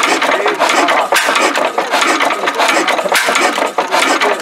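Engine running with a rapid, uneven clatter of knocks.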